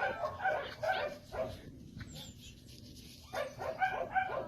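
A dog barking in quick repeated barks, about two a second, pausing for a second and a half midway before barking again.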